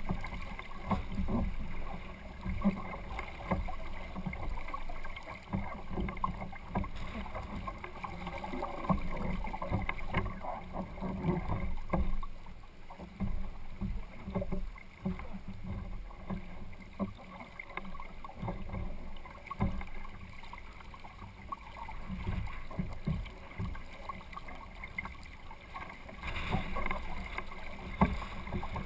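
Water sloshing and lapping against the hull of a kayak under sail, in an uneven, irregular rush, with low rumbling gusts.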